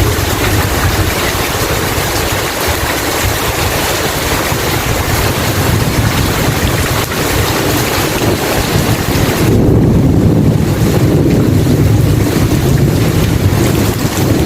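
Heavy rain falling steadily, with a low thunder rumble that swells about ten seconds in.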